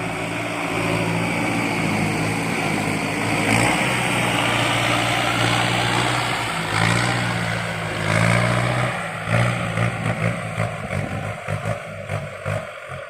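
Kubota farm tractor's diesel engine working under load while ploughing heavy clay soil, its pitch rising and falling as the load changes.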